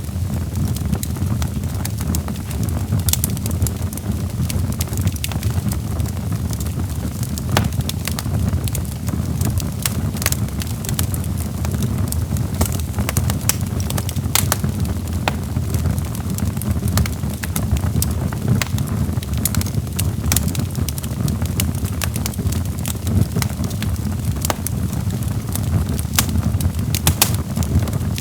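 Log fire crackling in a fireplace: irregular sharp pops and snaps over a steady low rumble of the burning wood.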